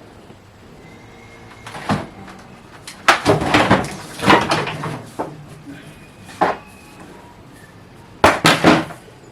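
Irregular knocks and clattering, as of hard objects being moved or set down: one about two seconds in, a busy run of clatters around the middle, and a couple more near the end.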